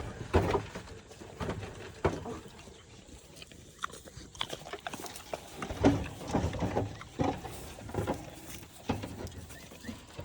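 Pigs grunting in short, irregular bursts at feeding time.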